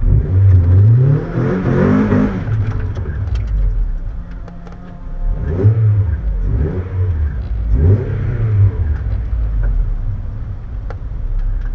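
1991 Mazda MX-5 NA6's 1.6-litre four-cylinder engine, heard inside the cabin, being revved: a long climb in pitch over the first two seconds that falls back, then several short throttle blips rising and falling.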